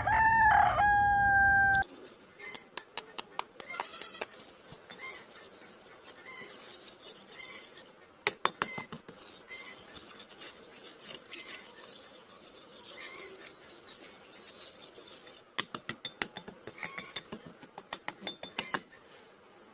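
A rooster crowing, cut off abruptly about two seconds in, followed by a long run of irregular light clicks and taps.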